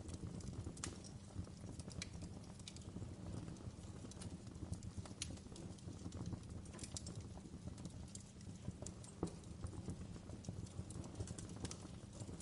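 Wood fire burning in a fireplace: a low steady rumble with irregular crackles and pops of the burning logs.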